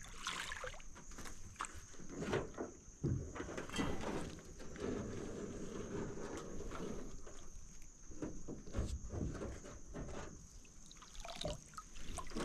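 Water trickling and splashing, with small irregular knocks, as a crab pot is hauled up out of the creek beside a small boat.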